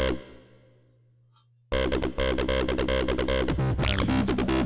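Electronic dance music playing back from a Fruityloops 3 project. It stops just after the start and trails off, then starts again about 1.7 s in with a steady driving beat.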